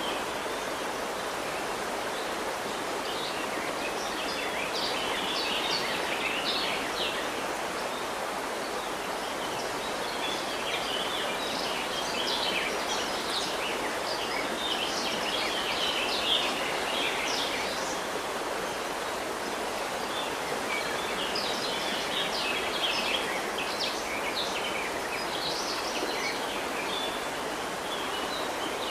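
River water running steadily, with small birds twittering in quick bursts of high chirps above it, in several spells.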